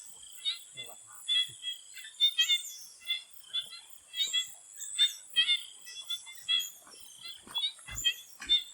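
Chorus of swamp frogs giving short, repeated calls, many overlapping, over a steady high insect drone.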